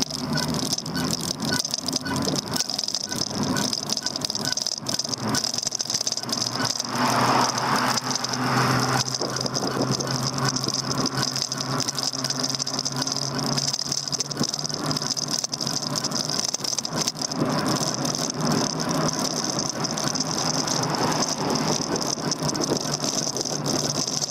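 Continuous rattling of a moving e-bike and its handlebar-mounted camera as it rides over pavement, with a steady high whine underneath and a brief swell of noise about a third of the way in.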